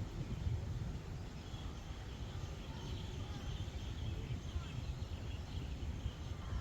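Outdoor ambience on open water: a low, uneven rumble of wind on the microphone, with faint bird chirps in the middle.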